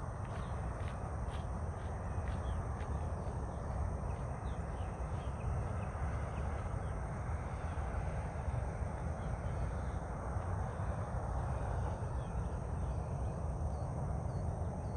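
Open-air outdoor ambience: a steady low rumbling noise, with faint high chirps over it.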